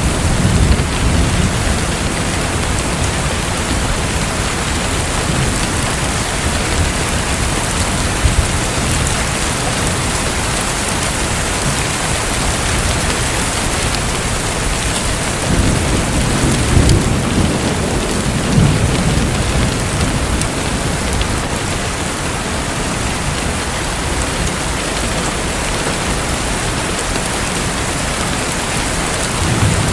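Steady, loud hiss of falling water, like heavy rain, with deep low rumbles swelling briefly near the start, again about halfway through, and at the end.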